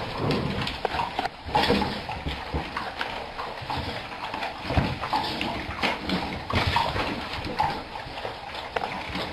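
Dogs moving about, with irregular scuffles and short soft knocks.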